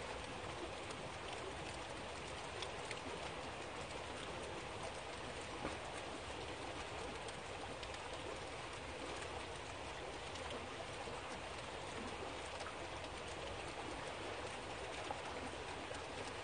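Steady rain falling, an even hiss with a few sharper drops striking nearby surfaces.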